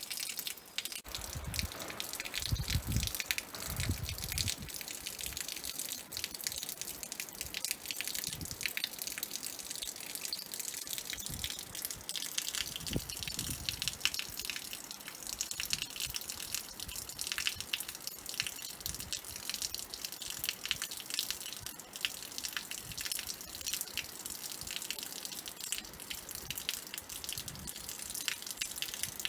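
Water trickling and dripping, a steady patter of many small drips and splashes, with a few low rumbles around the first few seconds and again near the middle.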